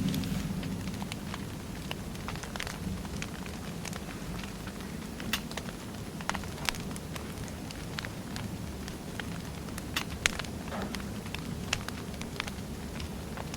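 Wood fire burning: irregular crackles and sharper pops from the burning logs over a steady low rush of flame.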